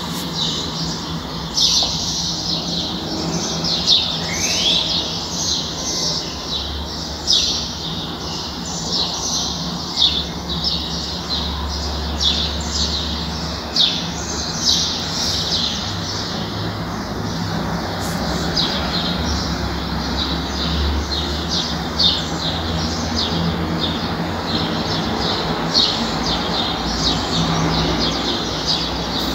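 Small birds chirping continuously in a dense stream of quick short chirps, with one rising note about four seconds in.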